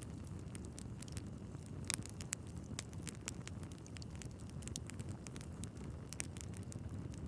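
Wood fire burning in a fireplace: a steady low rumble of flames with frequent irregular crackles and pops from the logs, one sharper pop about two seconds in.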